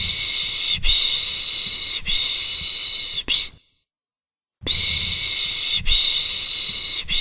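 Rhythmic 'shh' shushing to lull a baby: three long shushes of about a second each, then a short one, a second's pause, and the pattern starts again.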